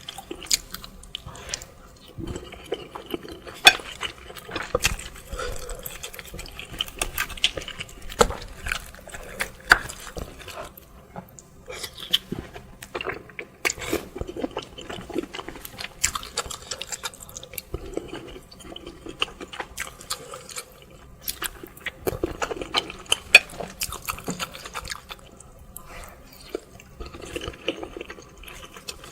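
Close-miked wet eating sounds of bakso meatball soup with spicy chicken feet: irregular slurping of broth and chewing, with many sharp wet clicks and smacks.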